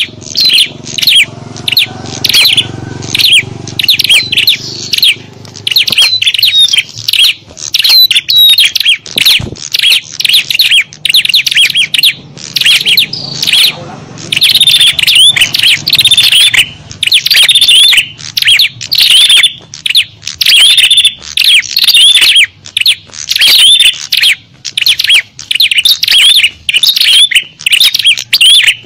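Loud, dense chatter of small songbirds: rapid high chirps overlapping without a break. It is a small-bird lure call (suara pikat) played to draw small birds in.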